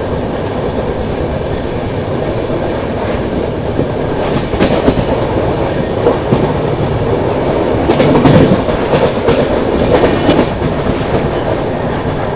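Shramjeevi Superfast Express running at speed: a steady rumble of wheels on the track with irregular clickety-clack over the rail joints. It grows louder about eight seconds in.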